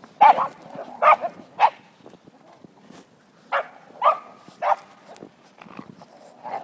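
A dog barking in short, separate barks: three in quick succession at the start, then a pause, then another run of three a little past the middle.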